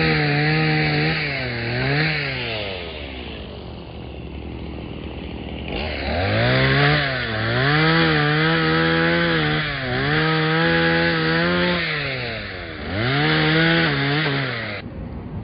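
Gas-powered saw cutting mesquite branches, its small engine revving up to full speed and dropping back again and again, idling for a few seconds in the middle. The engine stops abruptly just before the end.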